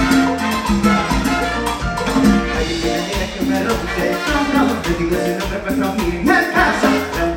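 A live salsa orchestra playing an instrumental passage with a steady dance beat.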